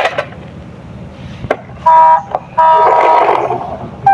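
A toy police car's electronic sound chip sounding two short steady horn-like tones about two seconds in, after a few clicks of the plastic toy being handled.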